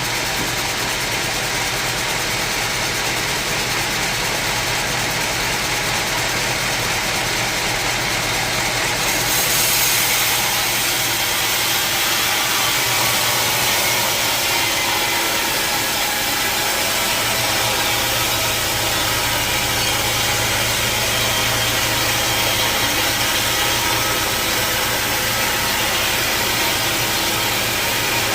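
Sawmill saw machinery running steadily with a loud mechanical drone and hiss. A brief swell of high hiss comes about a third of the way in, and a deeper hum joins a little past halfway.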